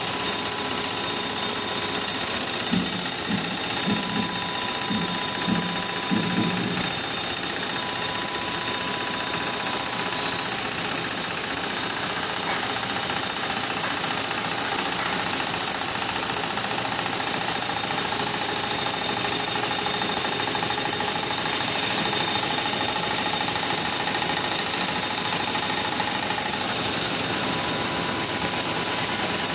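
Small home-built aluminum compressed-air engine running steadily: a fast, even stream of hissing exhaust puffs as the air drives it.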